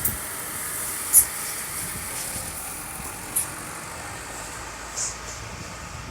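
Tractor engine running steadily while a front loader works, with four short, sharp, high clinks spread across the few seconds, the loudest about a second in.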